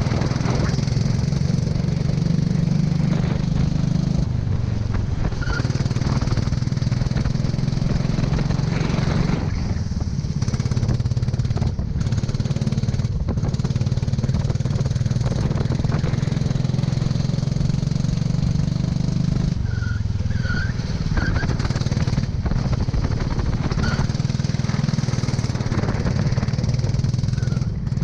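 Go-kart engine running hard, its pitch dropping and picking up again a few times as the kart slows and accelerates.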